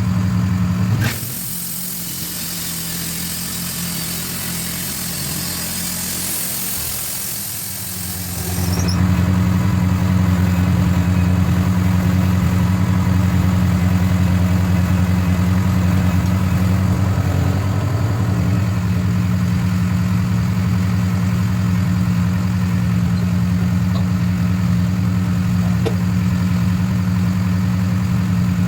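Sawmill engine running steadily with a low, even hum. For the first several seconds a loud hiss takes its place, then the engine hum comes back.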